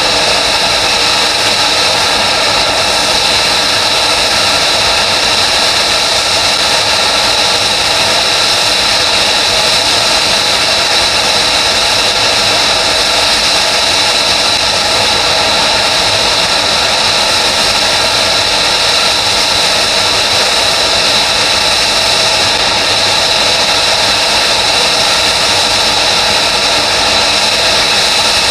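F-35B's F135 turbofan jet engine running steadily at low power, a loud continuous rush with a steady high-pitched whine.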